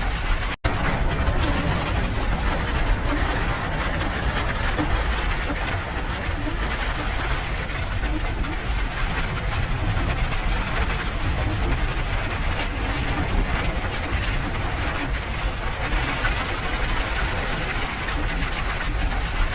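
Steady rain falling, a dense even hiss over a deep low rumble. The sound cuts out for an instant about half a second in.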